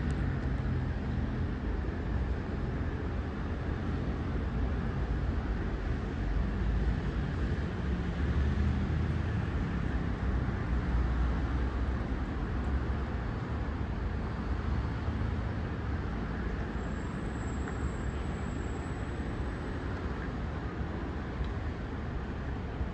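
Steady city traffic noise: a continuous low rumble of passing road vehicles, swelling and easing slightly, with a faint high whine for a couple of seconds past the middle.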